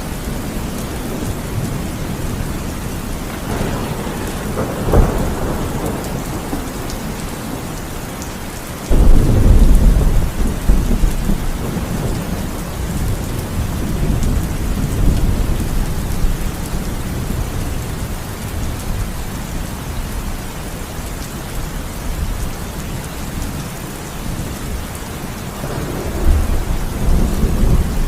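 Heavy rain falling steadily, with thunder: a sharp crack about five seconds in, a sudden loud deep rumble starting about nine seconds in and rolling on for several seconds, and another rumble near the end.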